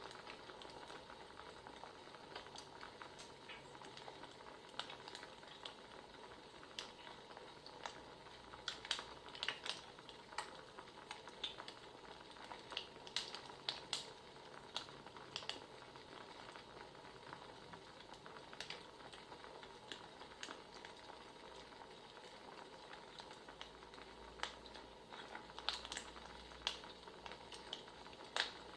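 Wood fire crackling: a steady soft hiss with irregular sharp pops and snaps, thicker in the middle and again near the end.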